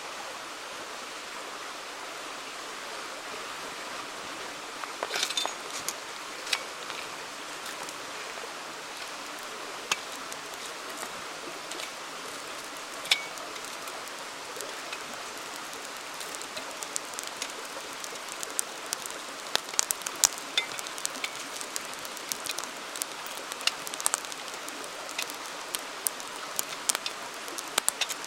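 A flowing river's steady rushing, with a wood campfire crackling over it: a few sharp pops in the first half, then frequent crackles from about halfway through.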